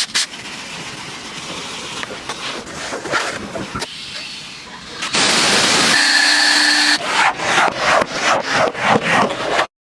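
Scrubbing on a car surface: rubbing strokes, a loud steady hiss of about two seconds in the middle, then quick back-and-forth scrubbing strokes, about three a second, until the sound cuts off suddenly near the end.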